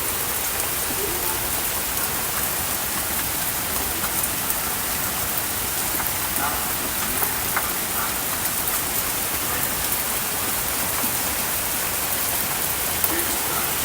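Rain falling steadily: a dense, even hiss with scattered louder drop ticks.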